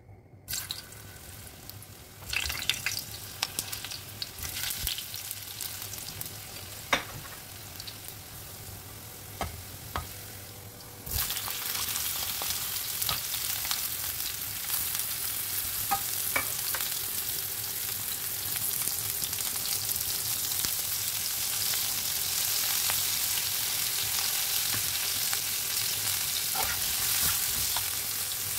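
Cauliflower florets and potato wedges frying in hot oil in a pan, stirred with a flat spatula: a light hiss with a few sharp spatula knocks, then about eleven seconds in the sizzle jumps to a loud, steady hiss, with occasional scrapes and knocks of the spatula against the pan.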